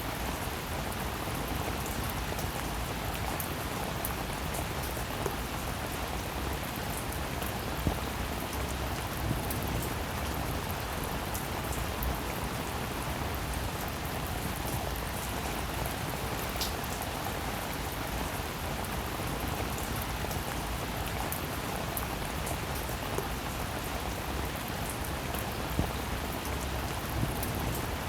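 Steady rainfall, an even hiss with many individual drops ticking on a hard surface and a few louder single drips now and then.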